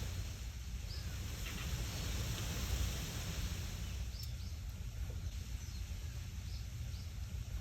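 Wind rustling leaves, with a low rumble of wind on the microphone and a steady hiss. Short high bird chirps come through several times.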